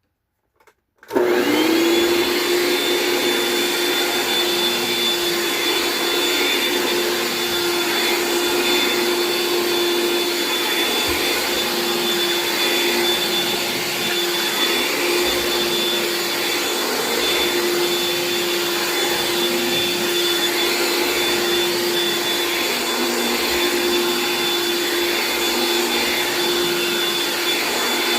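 Eureka The Boss SuperLight vacuum cleaner switched on about a second in after a faint click, its motor quickly spinning up to a steady whine and then running steadily.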